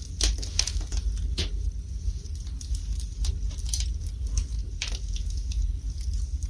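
Wood fire burning in a fireplace: irregular crackling with sharper pops, a few in the first second and a half and another near five seconds, over a steady low rumble.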